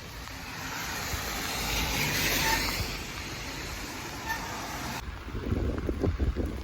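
A vehicle passing on a rain-wet road: the hiss of tyres on water swells to a peak about two and a half seconds in and then fades. Low, irregular thumps of wind or handling on the microphone follow near the end.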